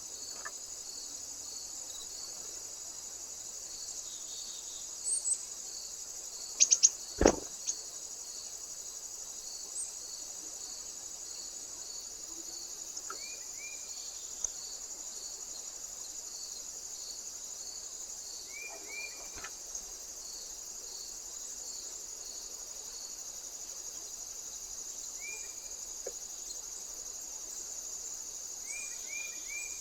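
Steady high-pitched chirping of crickets in an even pulsing rhythm. A few sharp knocks come about seven seconds in, and several short chirps later on.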